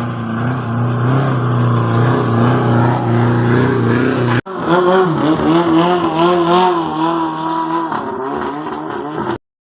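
Boat engine running with a steady hum; after an abrupt break about four and a half seconds in, an engine note rises and falls as it is revved.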